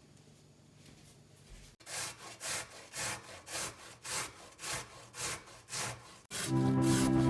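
About eight even rasping strokes, roughly two a second, after a faint quiet start. Music with steady tones comes in near the end.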